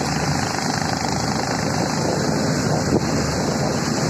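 Speedboat engine running steadily while towing a banana boat, with wind buffeting the microphone and water rushing past. There is a brief thump about three seconds in.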